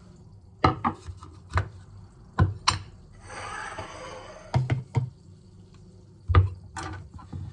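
Kitchen work on a counter: a run of sharp knocks and thuds as things are set down and handled, with a short rustle about three seconds in.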